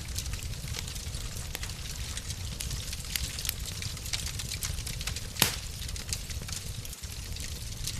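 Wood fire crackling in a fireplace: a steady low rumble with scattered small pops and crackles, and one louder pop a little past halfway.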